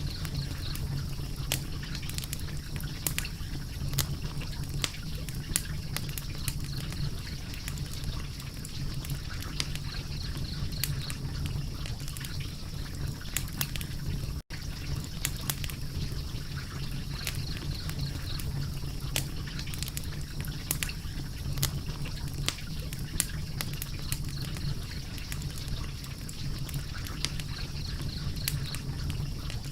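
Wood fire crackling, with frequent sharp pops and snaps over a steady low rumble; the sound cuts out for an instant about halfway through.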